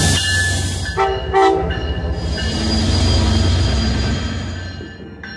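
Trains at a station platform: a locomotive rumbling with steady high squealing tones, cut about a second in by two short train-horn blasts. A long hiss then swells and fades away.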